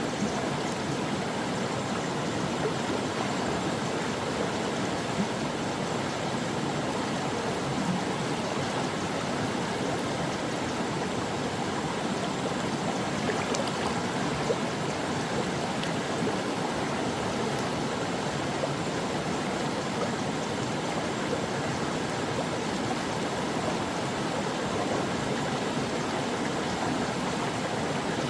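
A stream of water flowing steadily over rocks, a constant rushing and babbling with no pauses.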